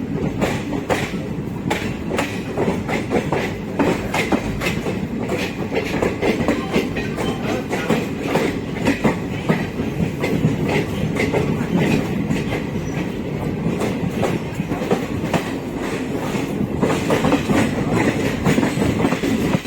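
Passenger express train running along the track: steady wheel-and-rail noise with frequent clicks as the coach wheels pass over rail joints.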